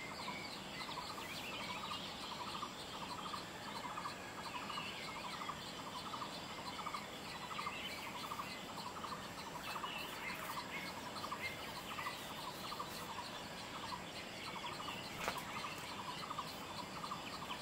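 Forest birdsong: a bird repeats a short note about three times a second, steadily throughout, while other birds chirp now and then over a faint steady high tone. A single sharp click comes about 15 seconds in.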